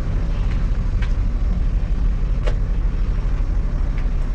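Semi truck's diesel engine idling, a steady low rumble, with a couple of faint short ticks over it.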